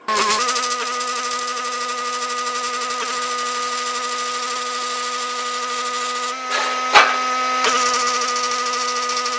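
A handheld electric power tool starts abruptly and runs at a steady high whine over a hiss. About six and a half seconds in the whine dips and changes briefly, with a sharp knock about seven seconds in, before the tool settles back to its steady run.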